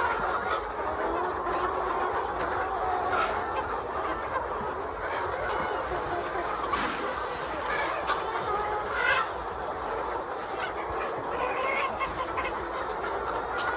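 A flock of laying hens clucking and calling together: a steady din of many overlapping calls, with a few louder calls standing out.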